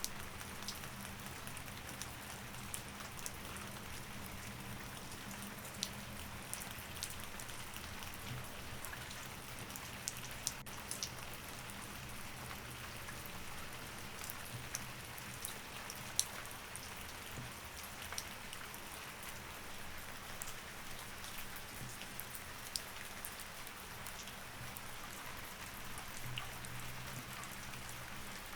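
Steady rain, an even hiss with scattered sharp ticks of drops, over a faint low hum.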